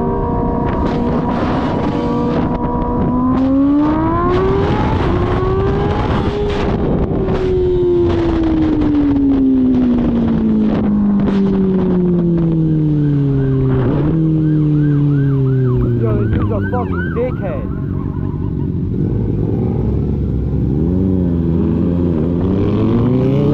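Kawasaki ZX-6R 636 inline-four engine under way: the engine note climbs a few seconds in, then falls slowly for several seconds as the bike slows in gear, drops again, sits low and uneven, and climbs again near the end.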